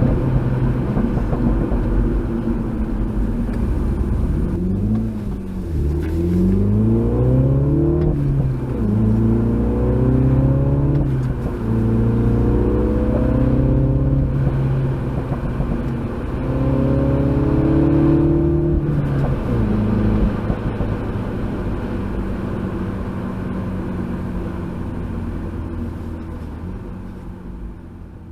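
Mini John Cooper Works F56's turbocharged four-cylinder engine pulling through the gears of its manual gearbox. Several rising sweeps in engine pitch each drop back at a shift. It then runs at steadier revs and fades out near the end.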